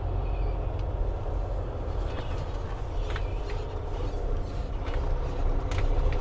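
Semi truck's engine and drivetrain heard from inside the cab as a steady low rumble while the truck rolls slowly, with a few light clicks in the last couple of seconds.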